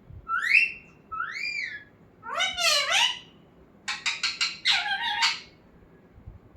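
Pet parrot vocalising: two rising-and-falling whistles, then a run of harsher, wavering squawking calls, one of them broken into quick pulses.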